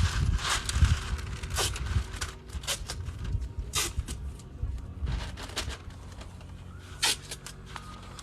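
Irregular clicks, knocks and short scrapes of objects being handled, closer together in the first few seconds and sparser after.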